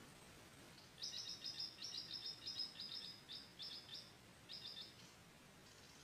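A bird chirping: a quick run of high, sharp notes lasting about three seconds, then a brief second run of a few notes.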